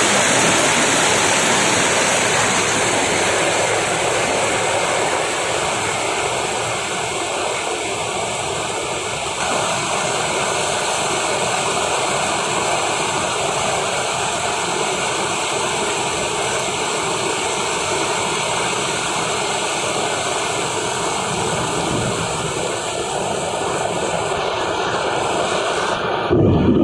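Heavy rain pouring down in a steady hiss. A brief low thump near the end.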